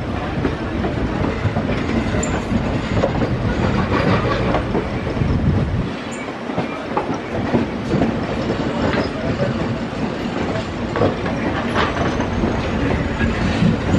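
Indian Railways passenger trains running side by side on parallel tracks, heard from the open side of a moving coach: a steady rumble with the wheels clattering over rail joints.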